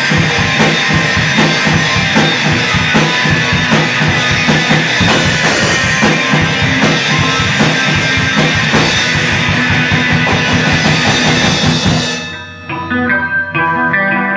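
Rock band playing live, with drum kit, bass and guitar. About twelve seconds in, the drums and full band cut out suddenly, and a single electric guitar carries on alone, picking separate notes.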